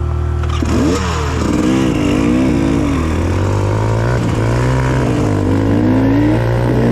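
Dirt bike engines idling, then revving up and down unevenly from about half a second in, with a few long rising pulls in pitch near the end as the throttle is opened.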